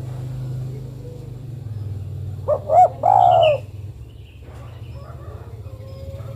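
Female spotted dove cooing once: two short coos, then a longer, louder drawn-out coo, over a steady low hum.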